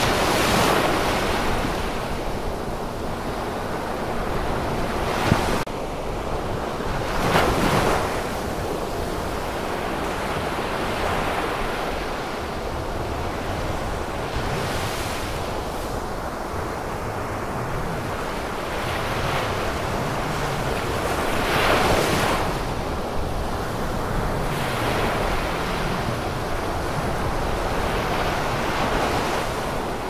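Ocean surf: a continuous rush of waves, with louder waves breaking and washing in every several seconds.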